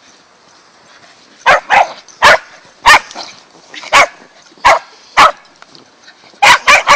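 A dog barking loudly and close by, about ten sharp barks in irregular bunches, with a quick run of three near the end.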